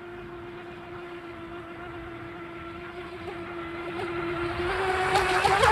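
Whine of an RC mini boat's 2040 3900kv brushless motor running at a steady high pitch, growing louder near the end.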